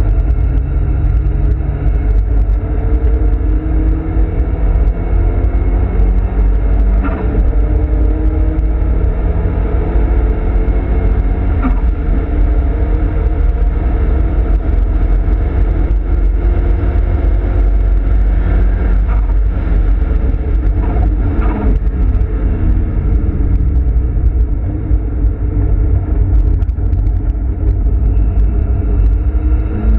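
Nissan Silvia S15 Spec R's turbocharged SR20DET four-cylinder engine heard from inside the cabin, driven hard. Its pitch climbs in long rising sweeps and drops back at each gear change, over a deep steady road and wind rumble.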